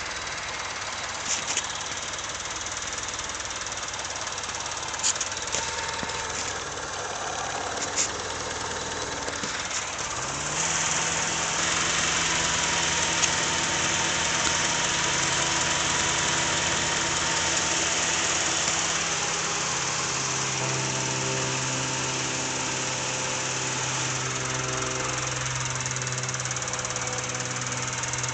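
Honda Civic engine running with an exhaust leak, with a few sharp clicks early on. About ten seconds in it gets louder and settles into a steady higher hum, which drops slightly in pitch near twenty seconds.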